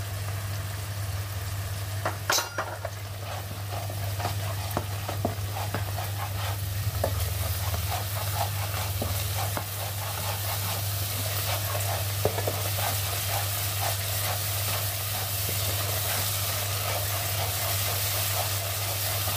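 Tomato-onion masala with freshly added spice powders sizzling in hot oil in a nonstick pan, stirred and scraped with a spatula in many small strokes. A steady low hum runs underneath, and there is one sharp click about two seconds in.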